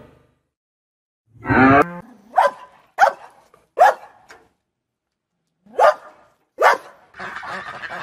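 Cocker spaniel barking: about six short, separate barks. Near the end a raspier, noisier call begins.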